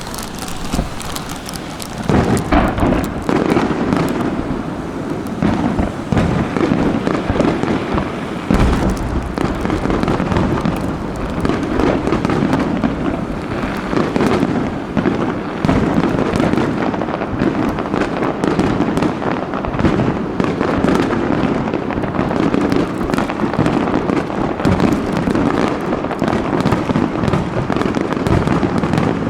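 Aerial fireworks display: many overlapping bangs and crackles in a dense, continuous run, growing louder about two seconds in.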